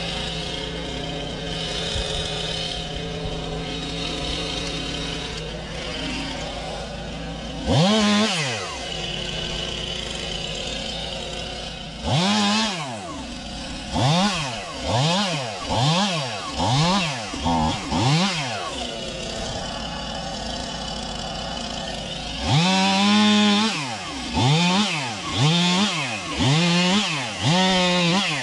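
Two-stroke chainsaw idling, then revved hard in short bursts. After two single revs comes a run of quick revs about one a second, one longer rev, and more short revs near the end.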